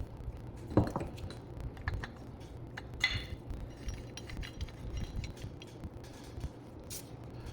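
Small metal parts clinking and tapping against each other, with one brighter ringing clink about three seconds in, over a steady low hum.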